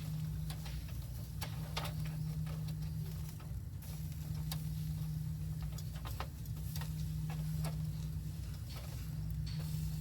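Wood fire crackling in a titanium fire pit: irregular sharp pops and snaps, a few a second at most, over a steady low hum.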